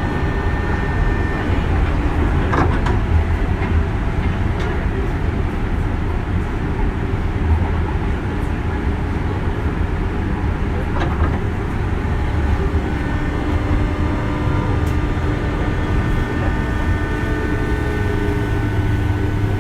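A 201 series electric train running, heard from on board: steady rumble of wheels on rail with a few knocks, and whine tones from its motors and traction control. A mid-pitched tone slowly rises in the second half.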